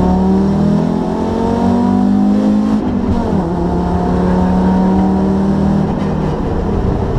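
Rally car engine under hard acceleration, heard from inside the cabin. It climbs in pitch through the revs, drops back at an upshift about three seconds in, climbs again, and drops at a second shift near six seconds.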